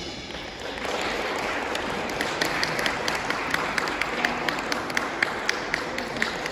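Audience applauding, swelling about a second in, with one nearby pair of hands clapping steadily at about three claps a second.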